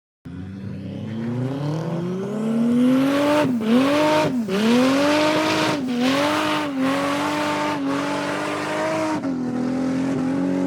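A car engine revved hard: its note climbs for about three seconds, then is held high with about six quick throttle lifts where the pitch dips and recovers.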